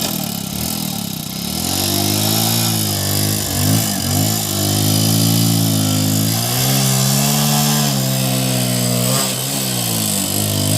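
Motorcycle engine revving hard under load, straining to tow a tractor and trolley; its pitch climbs and dips a few times, dropping briefly about four seconds in and again near the end.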